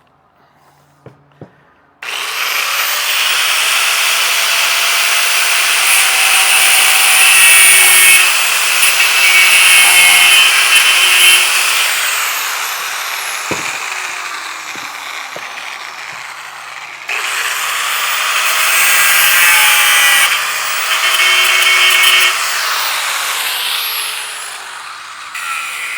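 Power tool with a spinning disc cutting or grinding steel, in two passes. It starts abruptly a couple of seconds in and runs loud for about ten seconds, then winds down with a falling whine. It starts again about halfway through, runs a few seconds and winds down again.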